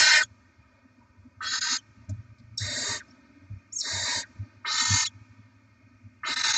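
Barn owl nestlings giving hissing, snore-like begging calls: about six short rasping hisses, one roughly every second.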